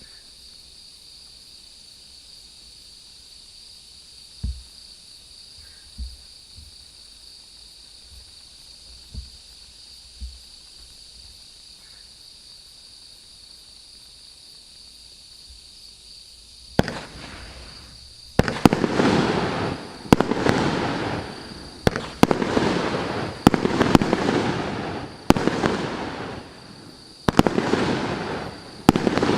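For the first sixteen seconds or so there is only a faint steady hiss and a few soft thumps. Then a firework fountain ignites with a hiss, and about a second and a half later the 1.2-inch multi-shot cake begins firing: loud shots about every one to two seconds, each followed by a noisy burst.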